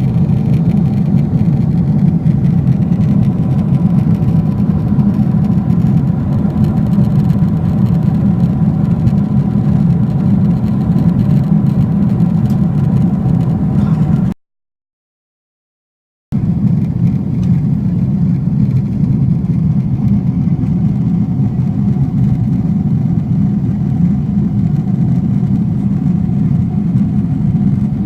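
Steady roar of a Boeing 777-300ER's cabin in flight: the deep rush of air and GE90 engines, with faint steady hums above it. It breaks off into dead silence for about two seconds halfway through, then resumes unchanged.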